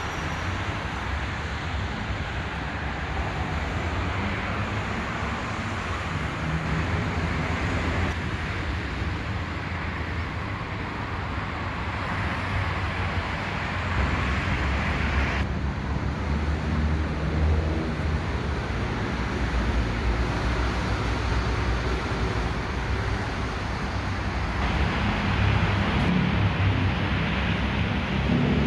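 Electric commuter train of the SRT Light Red Line running, heard from on board: a steady low rumble of wheels and motors under a broad rushing hiss, growing louder about halfway through and again near the end.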